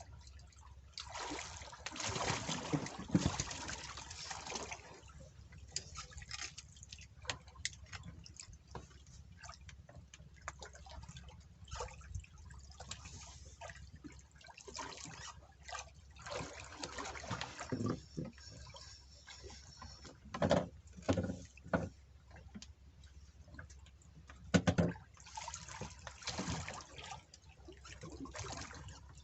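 Water sloshing and dripping in irregular splashes and drips, with a few louder splashes past the middle.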